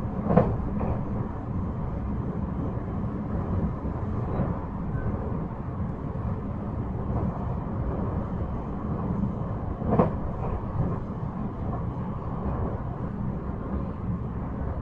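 JR 223-5000 series electric train running on the line, heard from on board: a steady rumble of wheels on rails, with a sharp knock from the track about half a second in and another about ten seconds in.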